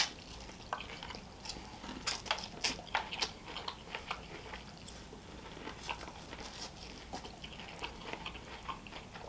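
Close-up eating sounds of a man biting kernels off a piece of grilled corn on the cob and chewing: many short wet mouth clicks and smacks, several a second, with one sharper bite right at the start.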